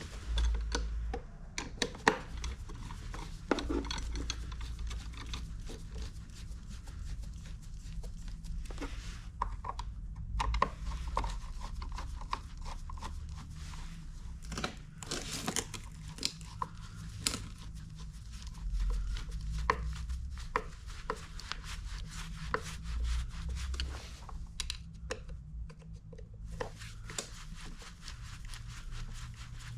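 Scattered clicks, knocks and rubbing of tools and mower parts being handled during the bearing repair, with no motor running.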